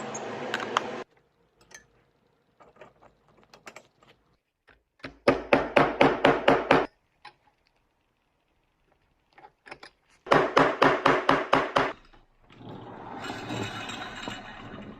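A small mechanism clicking in two runs of quick, even strokes, about five a second, with scattered lighter clicks between them, then a rougher whirring near the end.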